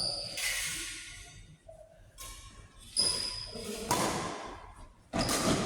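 Sharp racket strikes on a ball or shuttle, each with a short ringing ping and echoing in a large hall: one at the start, then three more about a second apart from about three seconds in.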